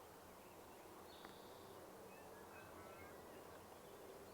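Near silence: faint outdoor ambience with a steady low hum, a few faint, distant bird chirps and one tiny click.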